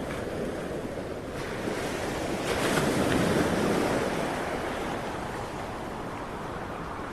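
Ocean waves breaking and washing onto the shore, with one wave swelling louder a little past halfway through the first half and then easing back into a steady wash.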